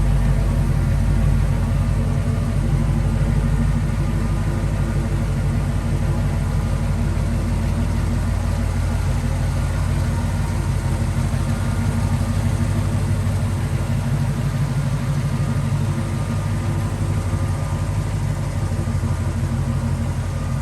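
1976 Jeep Cherokee Chief's engine idling steadily, with an even, rapid exhaust pulse.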